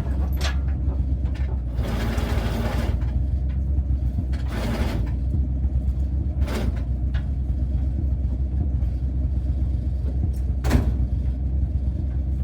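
A vehicle engine running steadily with a low rumble, with a few brief hissing swells and one sharp knock about eleven seconds in.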